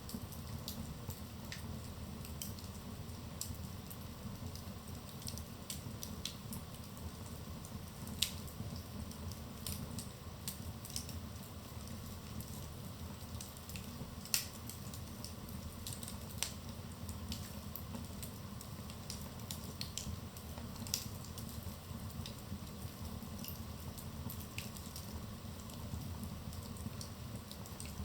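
Wood fire burning in a fireplace: irregular sharp pops and snaps over a steady low rumble of the flames, with two louder pops about eight and fourteen seconds in.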